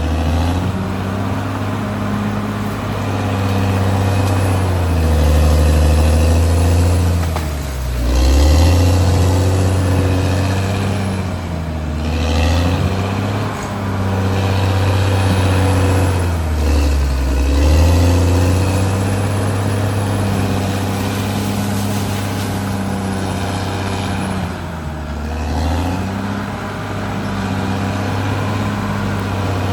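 Caterpillar D6R XL bulldozer's diesel engine running steadily under load. Its pitch sags and recovers several times as it lugs down and picks back up.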